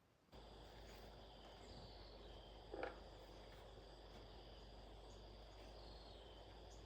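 Faint outdoor ambience with insects chirping steadily in high thin tones, and one short louder sound about three seconds in.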